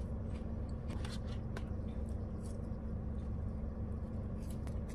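Mouth sounds of eating fried food: chewing and biting into a french fry, heard as scattered small crisp clicks. Underneath is a steady low hum in the car cabin.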